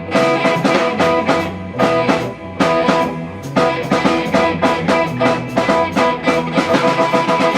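Live band playing an instrumental passage: guitar over drums, with a steady beat.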